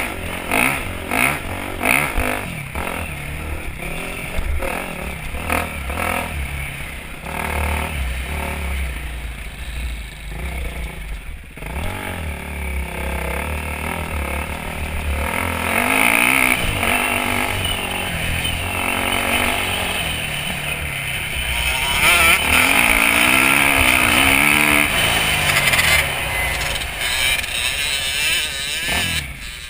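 Dirt bike engine on a motocross track, revving up and down as it rides, its pitch repeatedly rising and falling, loudest in the second half.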